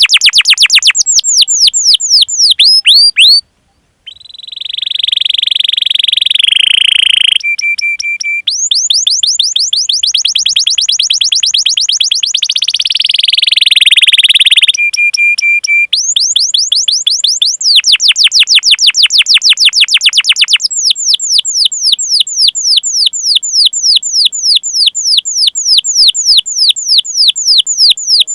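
Domestic canary singing a long song of rapid, repeated high chirps that sweep downward, several a second, in long runs. The runs are broken by a buzzing trill and by short held notes.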